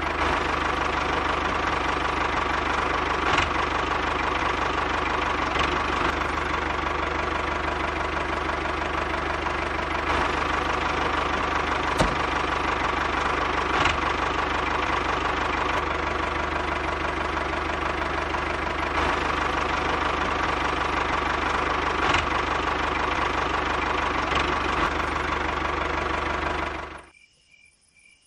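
A small motor runs steadily, with a few sharp clicks, then cuts off suddenly shortly before the end.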